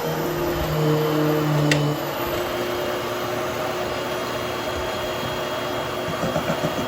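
Hoover HushTone upright vacuum cleaner running steadily as it grooms a damp nylon carpet. Its hum changes pitch about two seconds in, just after a brief sharp tick.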